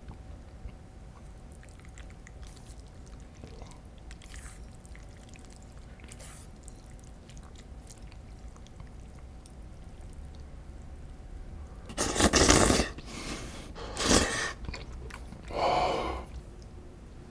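Eating sounds: quiet chewing with faint clicks, then three loud, short noisy bursts of mouth sound close to the microphone in the last five seconds.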